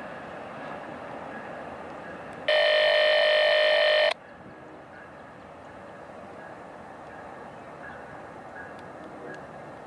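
Locomotive horn sounding one loud, steady blast of about a second and a half that starts and cuts off sharply, over the steady rumble of a train.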